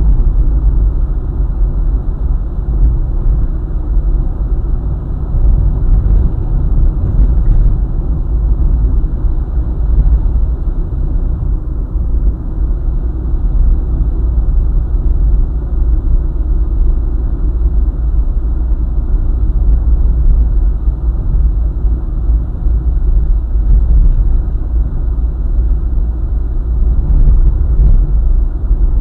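Steady low road rumble of a car travelling along a highway: tyre and engine noise, heavy in the deep end, with no sharp events.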